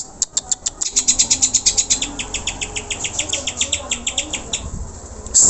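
Green leafbird (cucak hijau) singing a fast, even run of short high chipping notes, about nine a second, that breaks off near the end into a loud harsh buzzing call.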